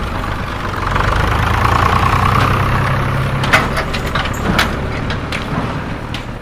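A heavy vehicle's engine running steadily, with several sharp knocks a little past halfway.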